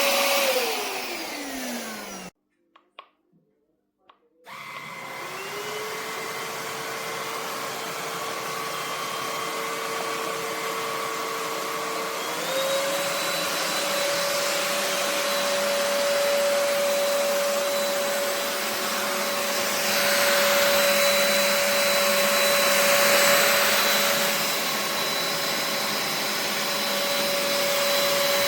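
Cordless stick vacuum motor winding down and stopping about two seconds in, then a couple of small clicks in near silence. It starts again at a lower speed, steps up to a higher speed about twelve seconds in, and runs steady with a high whine over a rushing hiss.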